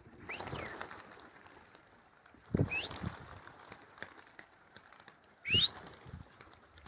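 Wind gusting across the microphone three times, each gust a short low buffet with a brief rising whistle. The last two gusts are the loudest.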